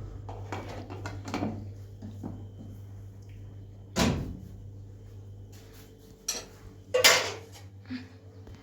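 Scattered knocks and clatters of hard objects being handled, like pots or tools set down, with the loudest knock about four seconds in and another sharp clatter about seven seconds in, over a steady low hum.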